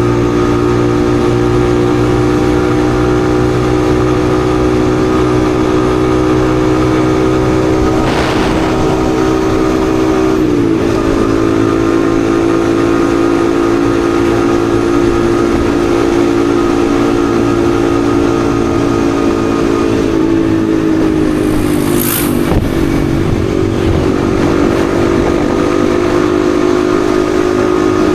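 Yamaha XSR155's single-cylinder engine running steadily under way. Its pitch dips sharply about ten seconds in, then sags and climbs back again a little after twenty seconds. There is a short hiss near the end.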